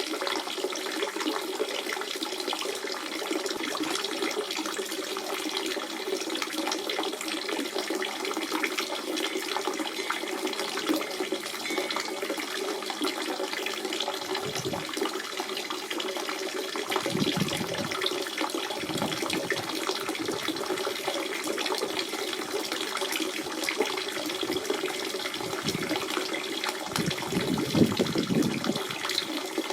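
Natural spring water running and splashing steadily, with a few deeper gurgles in the second half.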